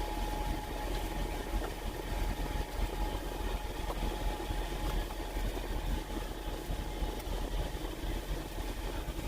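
Semi truck's diesel engine idling, heard inside the cab as a steady low rumble with a faint steady whine above it.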